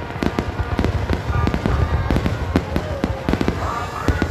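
Aerial fireworks display: a rapid, continuous barrage of shells bursting in sharp bangs and crackles over a deep low rumble.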